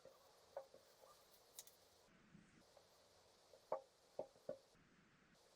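Near silence broken by faint, scattered clicks and taps of a drawing tool on its surface as lines are drawn, three slightly louder ones in the second half.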